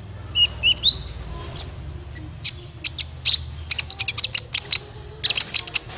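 Kolibri ninja sunbird song played as a lure (pikat) call: high, sharp chirps and short rising whistles, breaking into a fast run of ticking notes in the second half.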